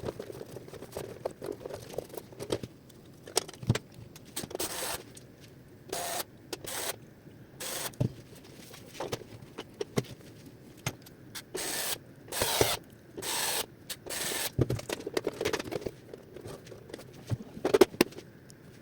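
Irregular clicks, knocks and short scraping bursts of hands working on a robot vacuum cleaner's plastic parts.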